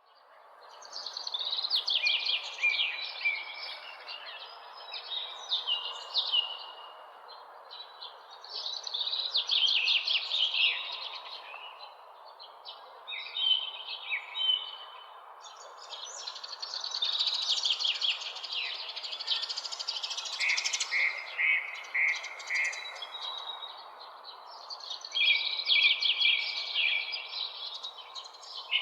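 Songbirds chirping and trilling in overlapping bouts that swell and ease every few seconds, over a steady even hiss. The sound fades in from silence at the start.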